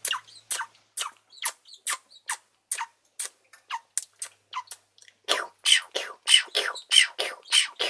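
Dusky-headed conure giving a run of short chirps, each falling sharply in pitch, about two a second. About five seconds in the chirps become louder, fuller and a little faster.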